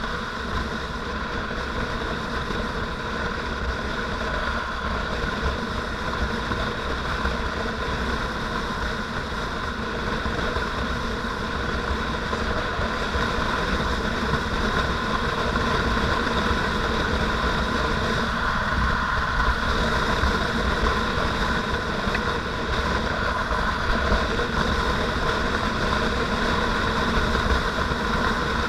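Motorcycle underway: steady engine drone mixed with wind rushing over the microphone, getting a little louder about halfway through.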